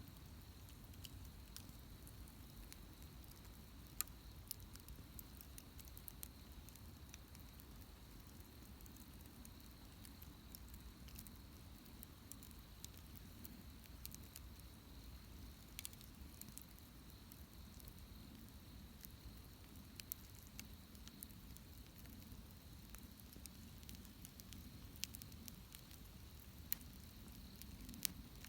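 Wood bonfire crackling: scattered sharp pops and snaps over a soft low hiss of the flames.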